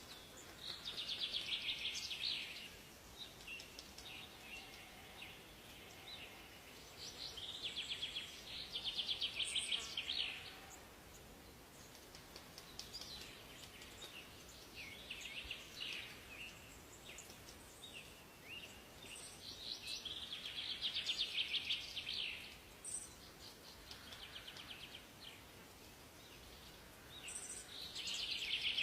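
Forest songbirds singing: a fast trilled phrase about two seconds long comes four times, with shorter, softer chirps from other birds between, over a faint steady background hiss.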